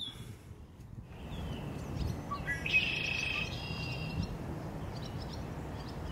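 Birds chirping, with short high calls scattered throughout and a louder run of calls about three seconds in, over steady low background noise.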